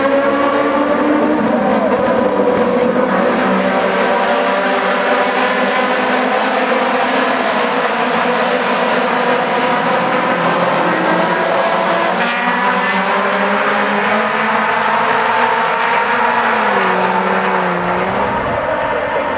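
A pack of Aussie Racing Cars at racing speed, their Yamaha 1300 cc four-cylinder motorcycle engines all running at high revs together. Many engine notes overlap and rise as the field accelerates.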